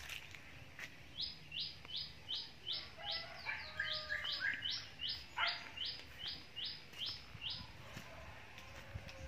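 A bird calling: an even series of short, high chirps, about two or three a second, for several seconds. Lower notes join in partway through.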